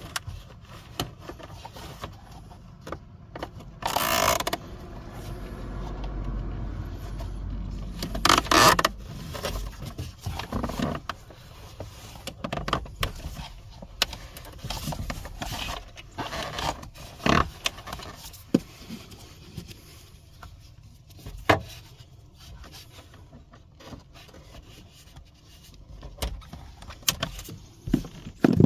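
Hands working plastic parts and a zip tie at an HVAC blend door actuator under a car dashboard: irregular clicks, knocks and scraping, with two longer scraping sounds about four and eight seconds in.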